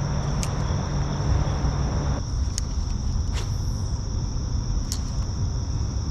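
A steady high-pitched insect chorus, with crickets buzzing, over a loud low rumble. A few faint clicks are heard about four times.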